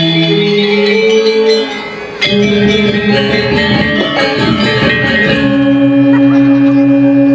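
Balinese gamelan ensemble playing a tabuh kreasi instrumental piece, with ringing bronze metallophone tones. About two seconds in it briefly drops in loudness, then comes back with a sharp loud stroke. It ends on long held tones that shimmer with a steady beating.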